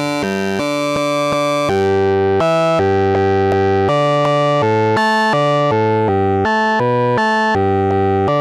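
Eurorack modular synthesizer playing an unbroken run of bright pitched notes that step to a new pitch two to three times a second, in an irregular melody driven by a chaos module's gate and CV. On many notes the upper tones fade away as the note goes on.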